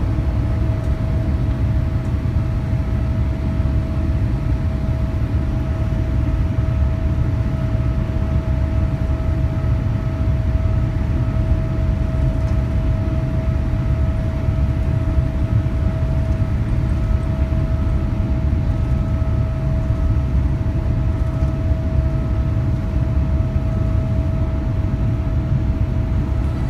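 Steady cabin noise inside a Boeing 787-8 Dreamliner: a low, even rumble of engines and airflow with a steady hum over it.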